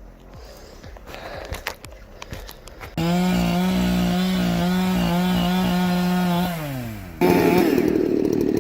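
Chainsaw running at high, steady speed, then slowing with a falling pitch. It is followed abruptly by another louder chainsaw running at a higher, wavering pitch. Before the saws, a few seconds of quieter sound with scattered sharp cracks.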